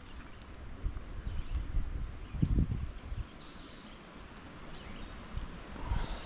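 A bird calls a quick run of four or five high notes, each sliding downward, about two seconds in. Under it are irregular low rumbling thumps on the microphone.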